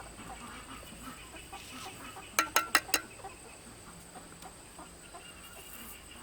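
Chickens clucking, with four sharp knocks in quick succession about two and a half seconds in.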